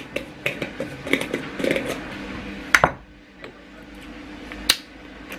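Kitchen utensils and containers clicking and clinking as spices are measured out: scattered light clinks of spoons, jars and dishes, with two sharper knocks, one a little before the three-second mark and one near the end.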